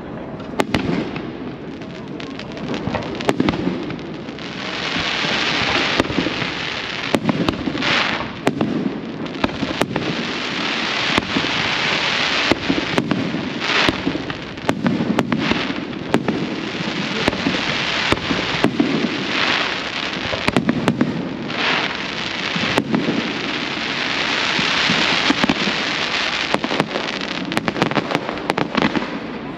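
Aerial fireworks going off: many sharp bangs at uneven intervals, over long stretches of dense hissing crackle.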